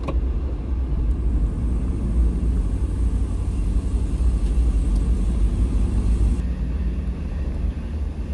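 A loud, continuous low rumble that starts abruptly and fluctuates without any clear rhythm or tone.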